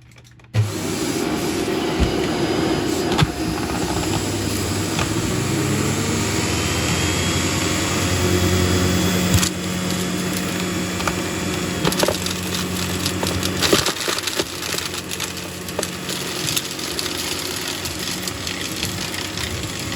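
Shark DuoClean vacuum cleaner switched on about half a second in, its motor running steadily while chunks of debris crunch and crack as they are sucked up through the brushroll. The cracks come more often in the second half.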